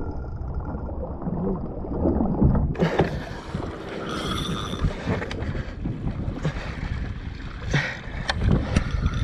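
Wind on the microphone and water lapping against a kayak hull, muffled for the first three seconds or so, then clearer, with several sharp knocks and clicks of gear being handled on the kayak.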